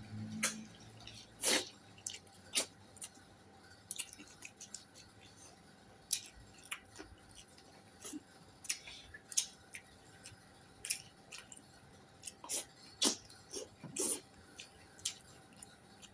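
Close-miked eating: chewing and mouth sounds, heard as irregular short clicks and smacks every half second to a second.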